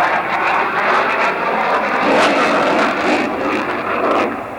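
Fixed-wing aircraft engine noise at an air show, a loud rushing roar that falls off sharply about four seconds in.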